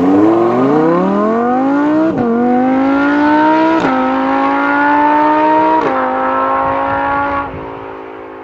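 Lamborghini Huracán LP610-4's V10 engine accelerating hard through the gears: the engine note climbs, drops sharply at three quick upshifts, then the driver lifts off near the end and the sound settles to a lower steady tone and fades.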